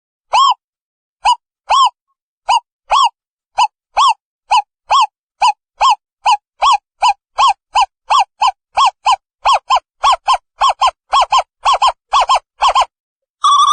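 Owl calling: a long series of short hoots, each rising and falling slightly in pitch, that speeds up from under two a second to about three a second.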